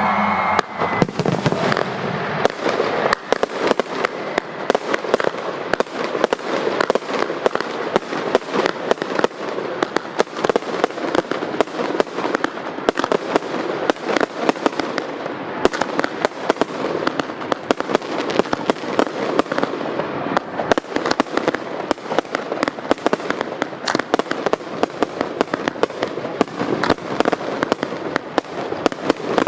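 Fireworks display going off in a dense, unbroken barrage: many sharp bangs a second, overlapping one another.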